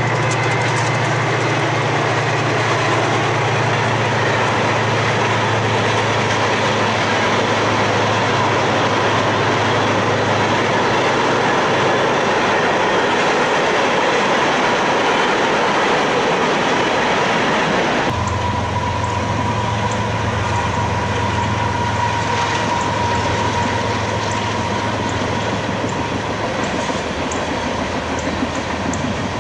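Freight train rolling past, loud and steady: the low drone of the diesel locomotive's engine at first, fading within the first ten seconds. After that comes the continuous rumble and clatter of the train's wheels on the rails as the freight cars go by. About two-thirds in the sound shifts abruptly, and a faint steady ring joins.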